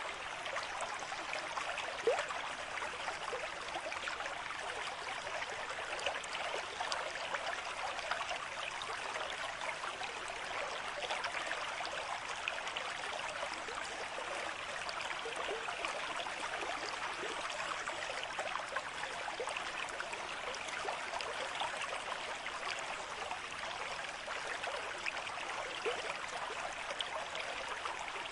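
Running water of a stream, a steady, even rush dense with small trickling splashes.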